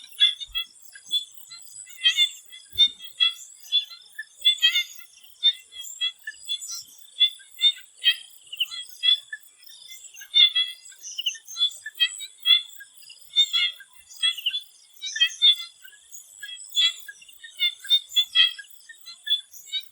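Chorus of swamp frogs calling in short, high chirps that overlap irregularly, several a second, with a steady high buzz running underneath.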